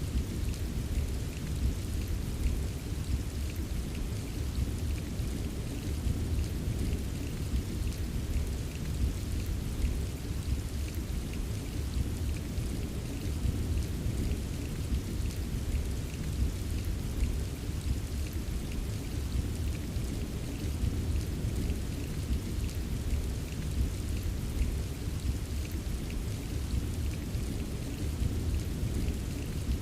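Steady rain falling, with a continuous low rumble underneath and faint patter of individual drops.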